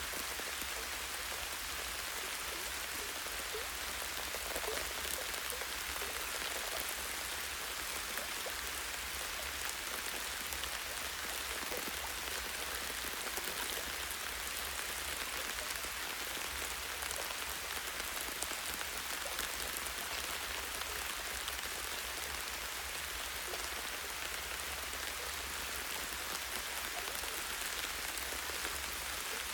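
Light, steady rain falling on tree branches and leaves, an even hiss full of fine, scattered drop ticks, with a steady low rumble underneath.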